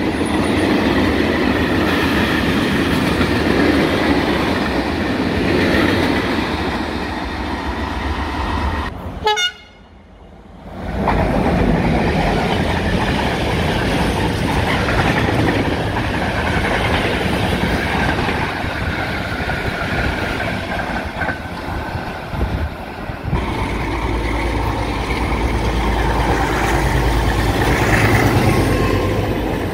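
Freight trains running past close by: loaded wagons rumbling and clattering over the rails, broken by a short lull about a third of the way in. In the last few seconds a Class 1550 diesel-electric locomotive passes, its engine adding a deep, steady hum.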